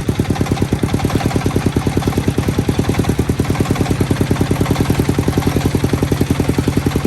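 Single-cylinder diesel engine of a công nông farm vehicle running steadily, with an even chug of about eight firing beats a second.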